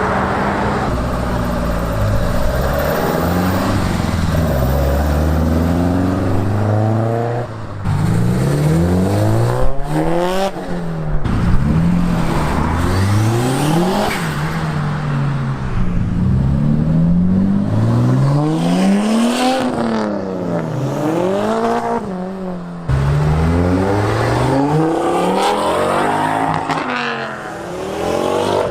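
A car engine revved hard again and again, its pitch climbing and dropping every second or two, with brief dips in level at about seven and a half and twenty-two seconds in.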